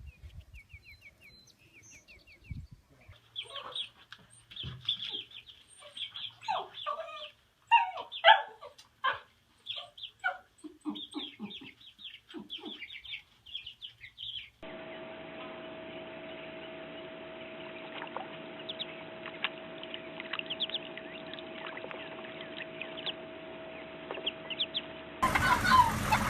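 Birds clucking and squawking in many short, quick calls. Partway through, the calls give way to a steady hum with scattered chirps.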